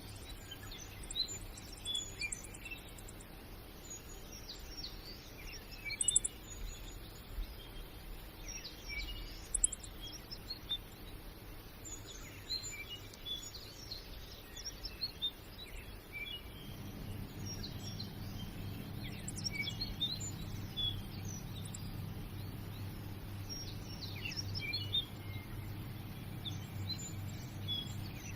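Small birds chirping, many short calls scattered throughout over a background hiss. A low steady hum sets in about two thirds of the way through.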